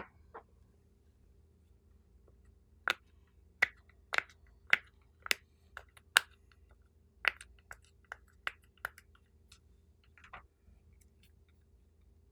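Slime being pressed and worked by hand, making a dozen or so sharp, sticky clicks and pops at irregular intervals. They start about three seconds in and stop shortly before the end.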